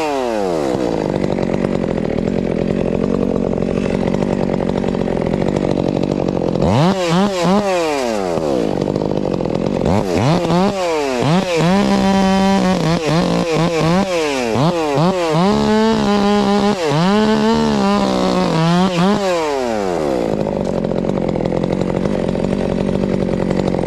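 Two-stroke chainsaw running steadily, then revved up and down again and again through the middle stretch, its pitch sweeping up and dropping, before settling back to a steady run.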